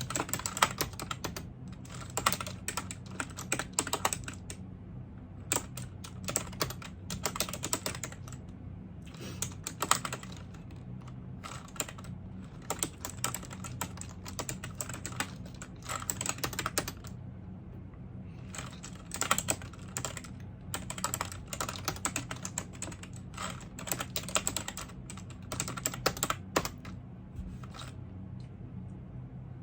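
Typing on a computer keyboard: rapid runs of key clicks in bursts of a second or two, with short pauses between them, over a steady low hum.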